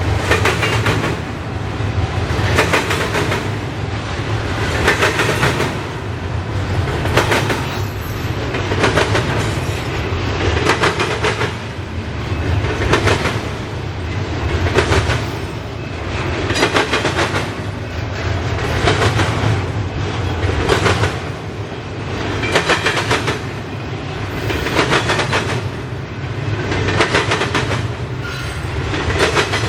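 Train cars rolling steadily past, their wheels clicking over rail joints in a regular beat about every two seconds over a constant low rumble.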